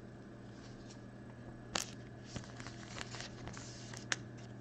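Trading cards and plastic card sleeves being handled: soft rustles and a few sharp clicks, the loudest just under two seconds in and again about four seconds in, over a steady low electrical hum.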